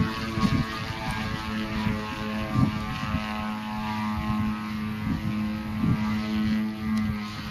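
50cc gasoline engine of a radio-controlled aerobatic model airplane running in flight, its propeller drone holding a steady pitch.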